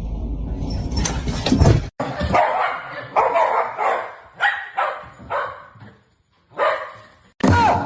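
A dog barking in a string of short, separate barks, after a loud noisy stretch in the first two seconds that cuts off abruptly.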